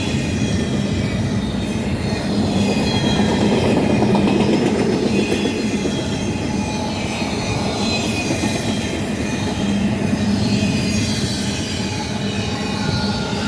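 Intermodal freight train cars rolling past at speed: a steady noise of steel wheels on rail, with a thin, wavering high squeal from the wheels over it.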